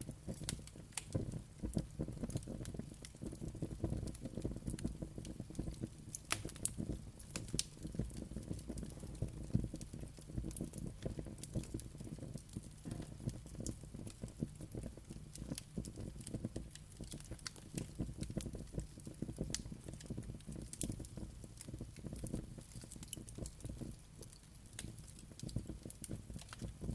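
Wood fire burning in a fireplace, a steady low rumble of flames with irregular sharp crackles and pops.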